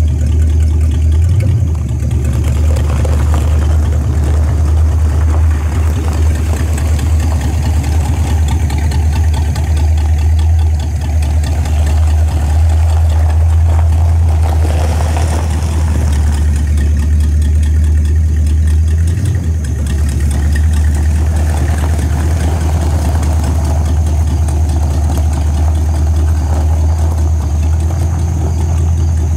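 1964 Dodge Polara 500's V8 engine running at a low, steady speed while the car rolls slowly in gear under its own power.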